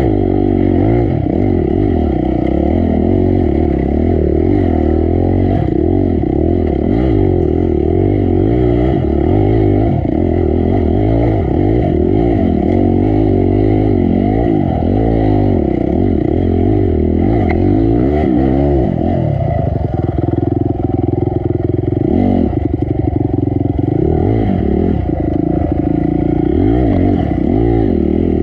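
Honda CRF250 dirt bike's single-cylinder four-stroke engine revving up and down again and again under constant throttle changes, then running steadier at lower revs about two-thirds of the way through before picking up again.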